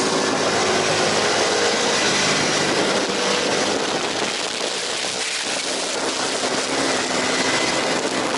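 Aprilia RSV 1000 Factory's V-twin at speed on a race track, its note rising and falling under heavy wind rush over the microphone.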